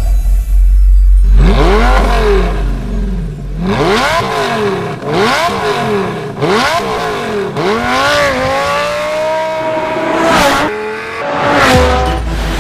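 Car engine revving through a Borla performance exhaust: a deep low rumble, then a series of quick revs rising and falling in pitch, a longer held rev, and two sharp high revs near the end.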